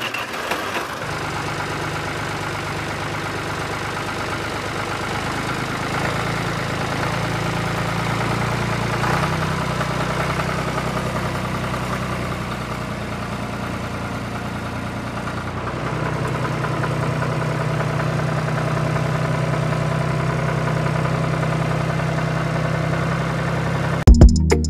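Diesel tractor engine idling steadily with an even pulse, a little louder from about six to ten seconds in and again from about sixteen seconds on.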